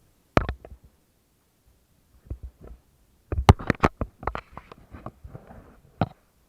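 A series of sharp, irregular knocks and thumps, with one cluster of several in quick succession about three and a half seconds in, a brief soft rustle after it, and a last knock near the end.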